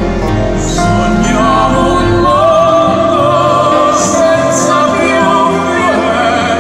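Operatic singing with a wide vibrato over orchestral accompaniment.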